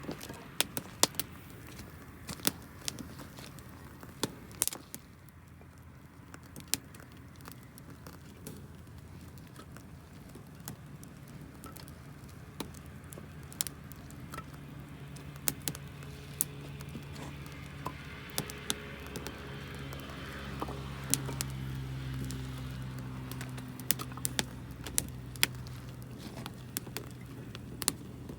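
Wood fire of damp firewood crackling, with irregular sharp pops and snaps throughout. From about halfway through, a low steady engine hum grows louder underneath.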